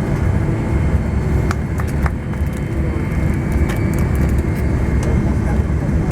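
Jet airliner heard from inside the cabin during landing: a steady low rumble of engines and airframe, with a few faint clicks.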